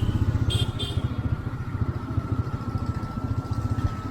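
Motorcycle engine running steadily under way, a fast low pulse with a faint steady whine above it. Two short high-pitched beeps sound about half a second in.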